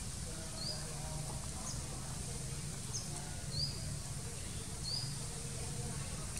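A bird calling: five short, high chirps spaced about a second apart, some sliding upward, over a steady high hiss and a low rumble.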